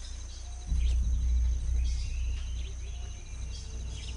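Rainforest ambience: a steady high insect buzz with short, scattered bird chirps, over a low rumble that grows louder about three quarters of a second in.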